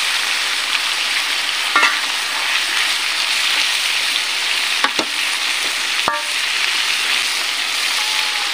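Vegetables sizzling as they stir-fry in a wok over a portable gas stove, stirred with a metal spatula. There are a few sharp clinks of the spatula against the wok, the last one ringing briefly.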